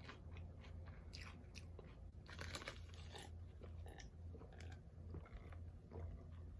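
Faint, close-up chewing and crunching of chips with dip, in irregular bites and crunches.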